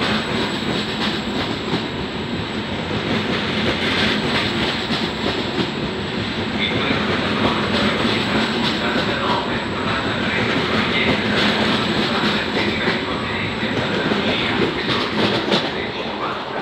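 Double-deck regional train departing past the platform, its carriage wheels rumbling and clattering over the rails. It fades near the end as the last car draws away.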